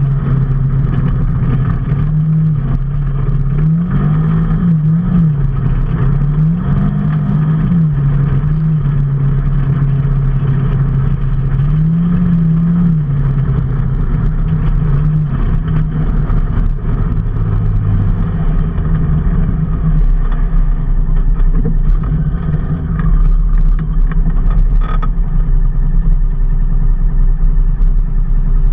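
A vehicle engine running under way, its pitch rising and falling several times as it speeds up and changes gear, then holding steady. A deep low rumble grows louder in the last few seconds.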